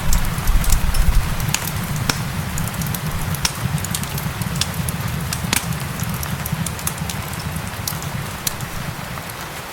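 Wood fire in a fireplace crackling with irregular sharp pops, over a steady hiss of gentle rain and a low rumble.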